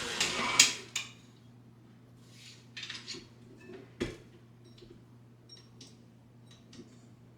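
A whirring electric appliance cuts off within the first second. It is followed by scattered light clinks and taps of dishes and utensils, the sharpest about four seconds in.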